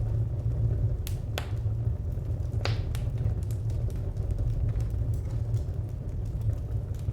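Wood fire crackling: a steady low rumble with scattered pops and snaps, the sharpest few coming about one to three seconds in.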